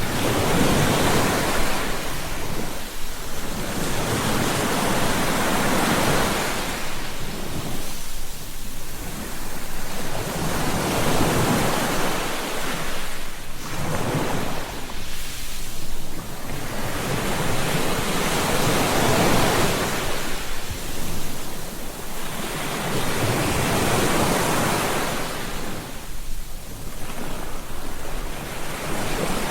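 Ocean waves breaking on a beach, the surf swelling and falling back every two to three seconds.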